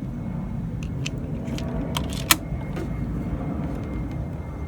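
Steady low rumble of background noise with a few faint clicks and one sharper click about two seconds in, typical of an air rifle being handled and reloaded between shots.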